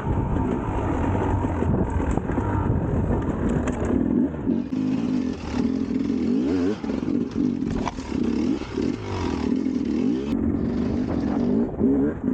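Enduro dirt bike engine being ridden, its pitch rising and falling over and over as the throttle is opened and shut.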